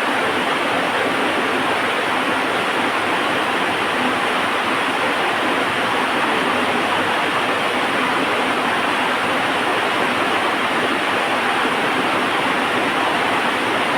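Heavy rain falling steadily, an even, unbroken hiss with no thunder or distinct crackles.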